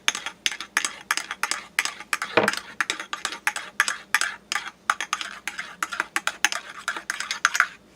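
A spoon stirring whipped cream into a cup of coffee, clinking rapidly against the side of the cup, several clinks a second.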